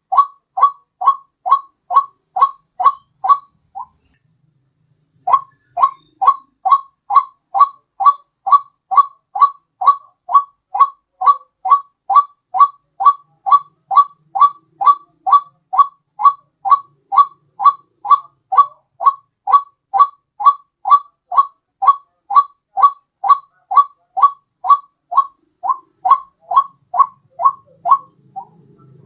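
White-breasted waterhen (ruak-ruak) call played as a bird lure: a fast, even run of identical short notes, about two and a half a second. The run breaks off for about a second some four seconds in, then runs on until it stops near the end.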